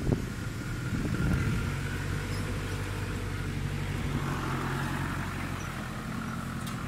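Off-road 4x4 engine idling steadily, with a short knock right at the start.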